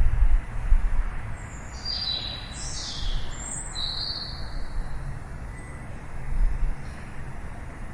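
Birds chirping: a quick run of high, short chirps about two to four seconds in, with a few fainter ones later. Underneath is a steady low rumble that swells briefly near the start and again near the end.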